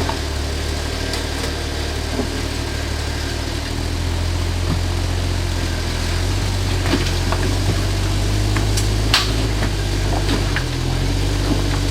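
Off-road vehicle's engine running low and steady while crawling forward over rocks, pulling a little harder about four seconds in. A few sharp clicks and knocks come through, the loudest about nine seconds in.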